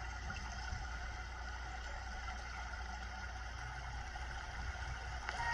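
River ambience: a steady wash of moving water over a low, even rumble.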